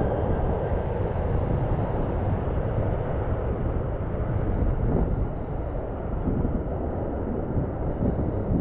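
Jet airliner noise, a steady rumble without clear tones, mixed with gusty wind buffeting the microphone.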